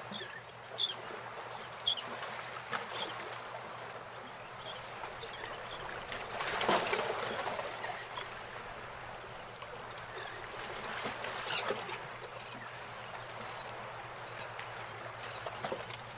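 Small birds chirping in short scattered calls over a faint steady hiss, with a quick cluster of sharp chirps near the end.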